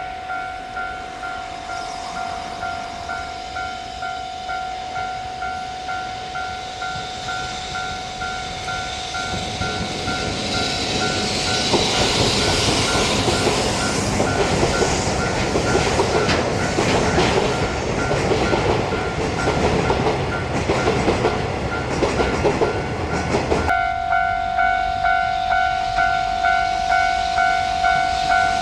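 Level-crossing warning bell ringing in a steady repeating beat while a freight train passes, its wheels clattering over the rail joints. The train noise swells from about ten seconds in and drowns the bell until it cuts back in near the end.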